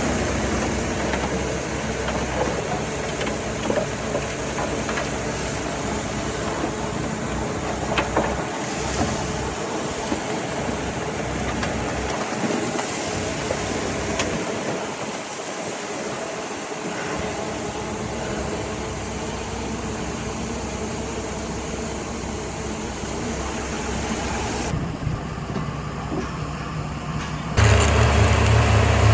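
Heavy diesel earthmoving machinery running steadily at work. A second or two before the end it abruptly becomes louder, with a strong deep engine hum.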